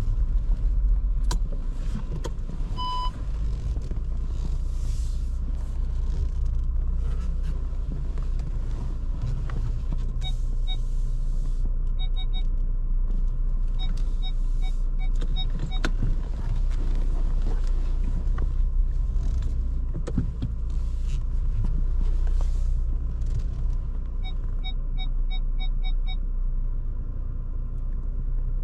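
Inside the cabin of a Skoda Kamiq moving slowly, its 1.0 TSI three-cylinder turbo petrol engine and tyres giving a steady low rumble. A single short beep sounds about three seconds in, and runs of quick electronic beeps, about four to five a second, come around the middle and again near the end, typical of parking sensors warning of a nearby obstacle while manoeuvring.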